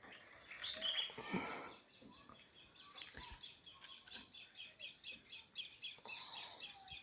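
Faint outdoor ambience: a steady high-pitched insect drone with bird chirps, including a run of quick repeated chirps, about three a second, through the second half.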